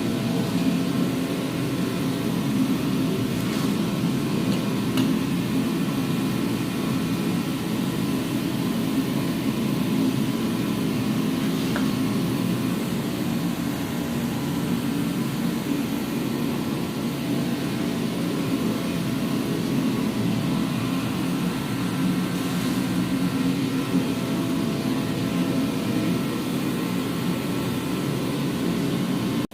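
A steady, low mechanical hum that does not change, with no distinct events.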